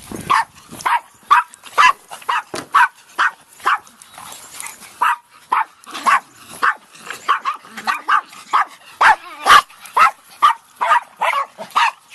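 Several dogs barking, short sharp barks about two to three a second, excited at being let out.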